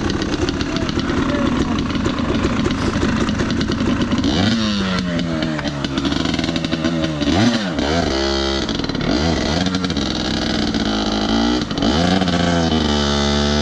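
Dirt bike engine running, then revved up and down several times in quick throttle blips from about four seconds in.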